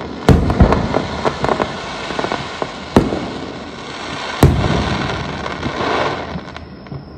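Fireworks bursting: sharp bangs with crackling and rumbling between them. The loudest bangs come just after the start, at about three seconds and at about four and a half seconds, and the sound fades away near the end.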